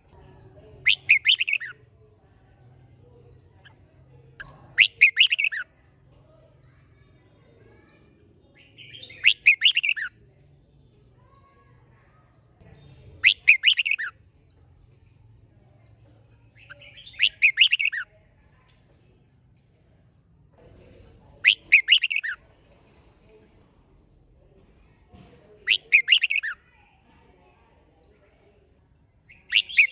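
Red-whiskered bulbul singing: a short, loud phrase repeated about every four seconds, with fainter short chirps between the phrases.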